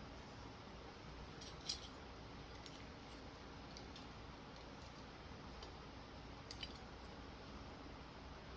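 Faint clicks and light rustling of ceiling fan wires being fed through the canopy and down rod, with one louder click about two seconds in and a quick pair of clicks later on.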